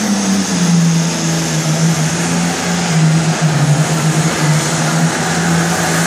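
Pro stock pulling tractor's turbocharged diesel engine running hard at high revs: a loud, steady drone whose pitch wavers slightly.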